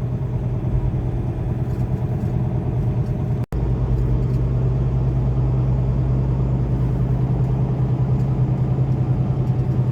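Semi truck's diesel engine running steadily, a low drone heard from inside the cab. The sound drops out for an instant about three and a half seconds in.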